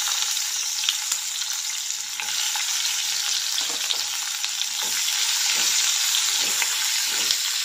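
Cashews and chunks of onion sizzling in hot oil in a non-stick kadhai, a steady frying hiss; from about halfway through, a silicone spatula stirs them round the pan in slow strokes.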